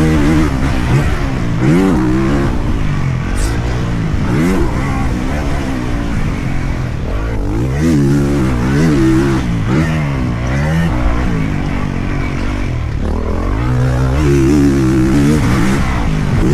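Dirt bike engine revving hard and easing off again and again, its pitch climbing and dropping every second or two as it rides a motocross track.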